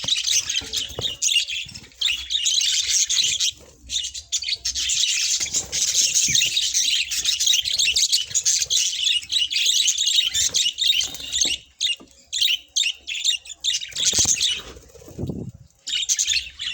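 Budgerigars chattering and warbling: a dense run of fast, high chirps that breaks off briefly a few times.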